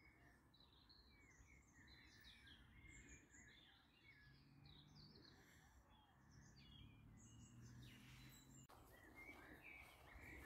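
Faint songbird chorus: several small birds chirping and singing over one another in short, overlapping phrases, with a faint low hum partway through.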